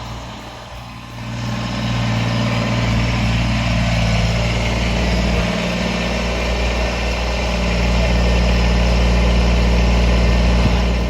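Diesel engine running steadily under a broad hiss, growing louder about a second and a half in.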